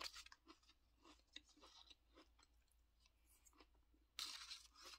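Faint crunching and chewing of Apple Pie Cinnamon Toast Crunch cereal in milk, with small clicks of a plastic spoon stirring in a plastic cup. A louder crunch comes about four seconds in.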